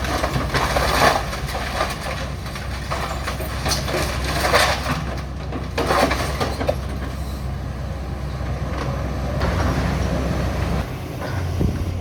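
Caterpillar demolition excavator's diesel engine running under load while it tears into a building, with repeated crunching and crashing of breaking debris over the steady engine rumble.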